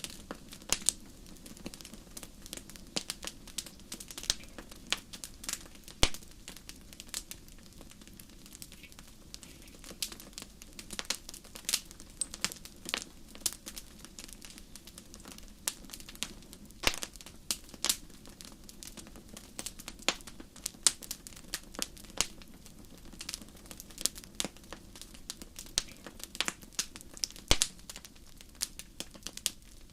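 Wood fire crackling: irregular sharp pops and snaps, several a second, some louder than others, over a low steady rumble.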